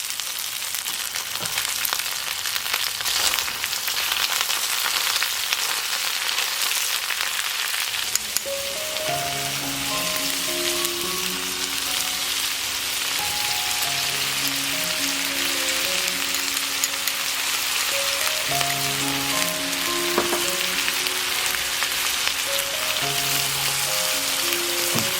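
Food sizzling steadily on a hot iron plate over a charcoal shichirin grill, with scattered crackles. Soft background music with a simple melody comes in about eight seconds in.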